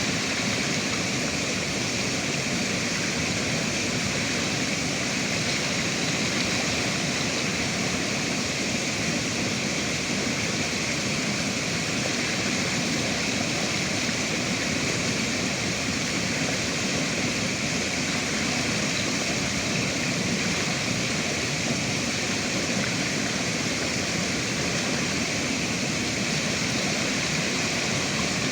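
River water rushing and splashing, a steady even rush without breaks.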